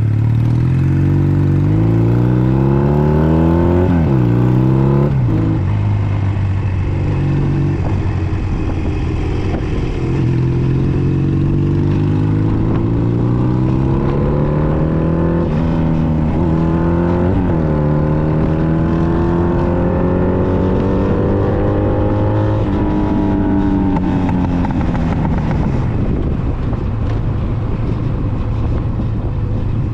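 Honda Nighthawk 250's air-cooled parallel-twin engine pulling through the gears. The pitch climbs and drops sharply at each upshift, four times. After a last long climb it falls off as the throttle closes, settling to a steady low idle near the end.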